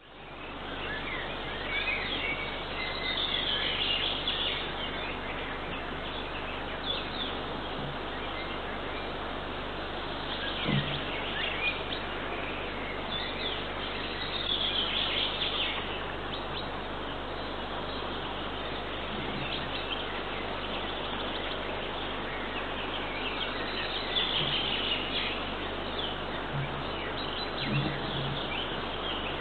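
Small wild birds chirping and singing in short bursts, several times over, above a steady background hiss, with a few brief low notes here and there.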